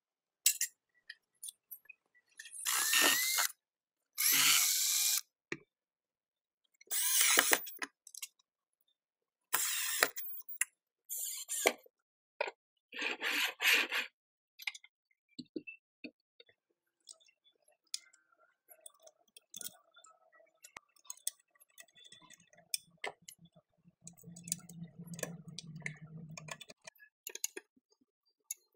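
Workshop tool work: five short bursts of a power tool, about a second each, spread over the first fourteen seconds. Then scattered clicks and taps of parts being handled, with a low hum for a couple of seconds near the end.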